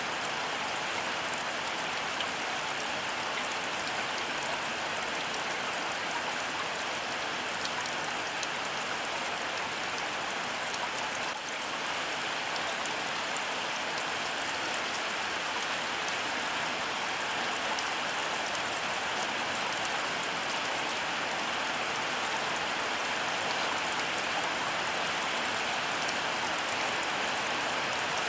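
Heavy rain falling steadily, a dense even hiss with fine drop ticks, with no thunder heard.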